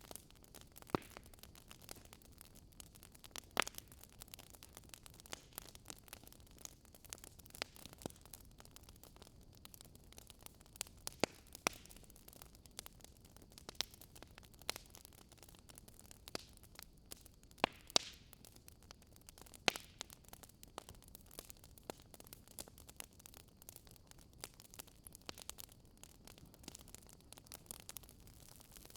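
Wood fire crackling in a fireplace: a soft steady hiss under irregular sharp snaps and pops, a few of them louder than the rest.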